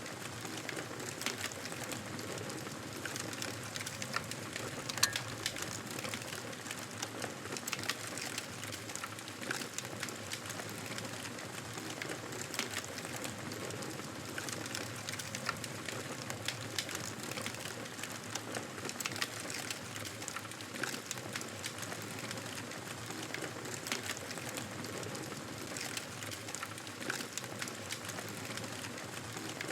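Wood fire crackling in a fireplace: a steady hiss with frequent small pops and clicks, and one louder pop about five seconds in.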